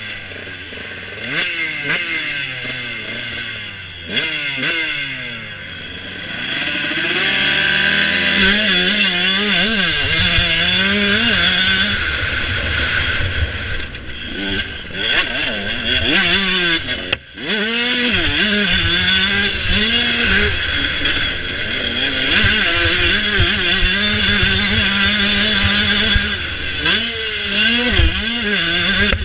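Motocross motorcycle engines running and revving hard, their pitch rising and falling again and again with throttle and gear changes. About two-thirds of the way through the sound drops away for a moment, then picks up again.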